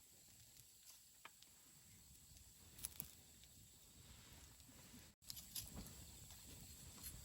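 Wood campfire crackling faintly, with sharp single pops a little over a second in and a close pair near three seconds, then a flurry of pops after the sound cuts out for an instant about five seconds in.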